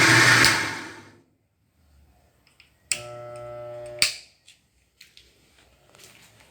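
Electric drill running, then spinning down and going quiet within the first second. About three seconds in, a click starts a short steady hum of about a second, ending in another click, followed by a few light clicks.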